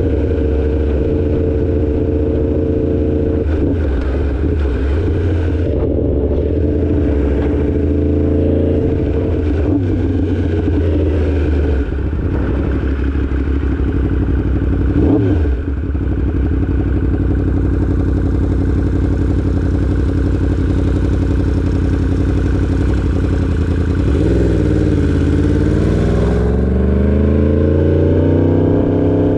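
2016 Yamaha R1's crossplane inline-four engine running steadily while riding. About three-quarters of the way through the engine note dips, then climbs steadily as the bike accelerates.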